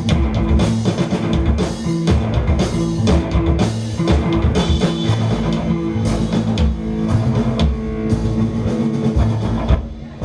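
Live rock band playing an instrumental stretch between vocal lines: drums, bass and electric guitars. The playing drops away briefly near the end.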